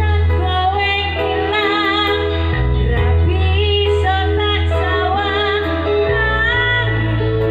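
A woman singing a dangdut koplo song with wavering vibrato over live band accompaniment with a steady bass.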